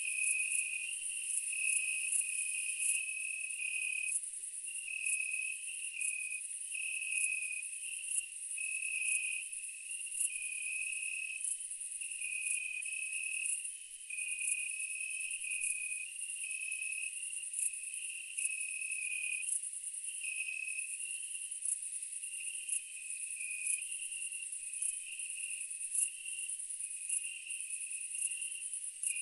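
Steady chorus of night insects: crickets chirping in pulses over a continuous high-pitched buzz.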